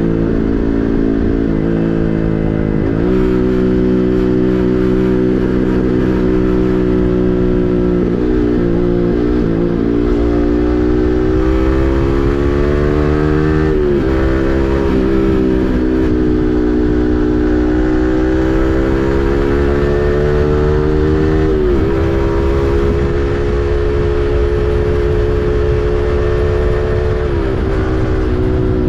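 Yamaha MT-15's 155 cc single-cylinder engine through an SC Project full-system exhaust under way: the exhaust note climbs with the throttle and drops sharply at several gear changes, about every five to seven seconds.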